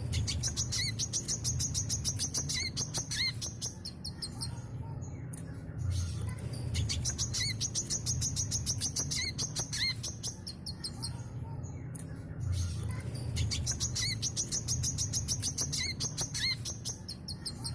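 Brown-throated sunbird (kolibri kelapa) singing hard and non-stop. Each bout is a rapid string of high chattering notes mixed with short upward-swooping whistles. The bouts last about four seconds and come three times, roughly every six seconds.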